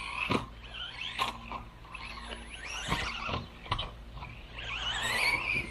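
Losi Mini-B RC buggy's brushless motor whining, its pitch rising and falling with the throttle, loudest near the end, with a few sharp knocks in between.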